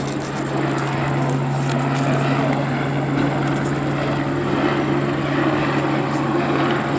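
Police helicopter circling overhead: a steady rotor and engine drone with a constant low hum.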